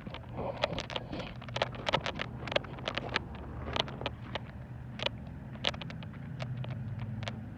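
Footsteps crunching on gravel, a few sharp steps a second, over a steady low mechanical hum like an idling engine.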